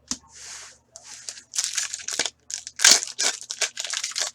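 A hockey card pack's foil wrapper being torn open, then crinkled and handled as the cards are pulled out. One smooth tearing hiss near the start is followed by a dense run of irregular crackling.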